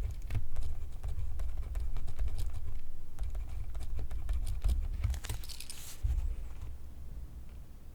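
Close-miked pencil writing on paper: a busy run of quick scratchy strokes and small ticks over a dull knocking from the pencil pressing on the paper and desk. About five seconds in there is a longer, brighter scrape.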